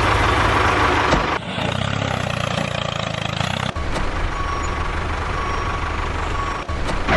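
Tractor engine running, in several short stretches cut together, with the engine note changing abruptly about a second and a half in, near four seconds and near the end. A steady high whine sits over the engine in places.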